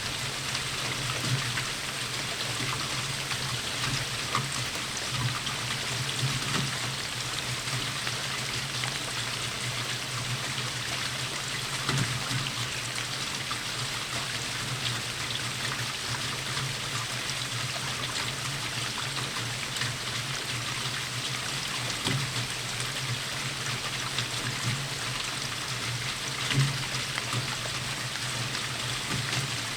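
Steady rainfall, with heavier drops landing close by every few seconds; the loudest lands near the end.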